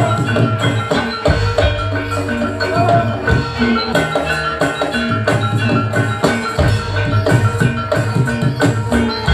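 Javanese gamelan music for a jaranan barongan dance: bronze metallophones and gongs struck in fast repeating patterns over drums and deep gong tones.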